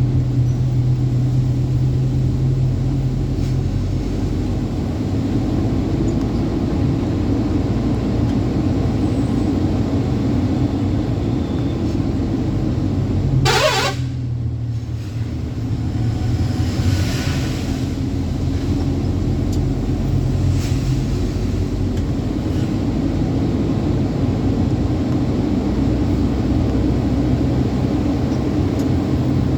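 Truck engine running steadily while driving, a low drone throughout, with one short, sharp sound about halfway through.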